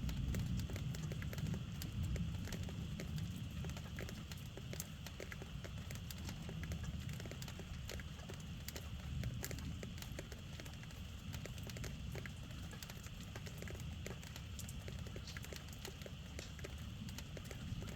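Rain falling, with many irregular drops tapping on a nearby surface over a steady low rumble, the rumble a little stronger in the first few seconds.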